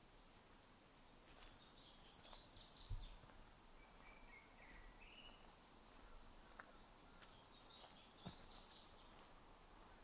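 Faint songbird song: a burst of high twittering phrases about a second and a half in and again about seven seconds in, with a lower, shorter call between them. A soft low thud about three seconds in is the loudest moment.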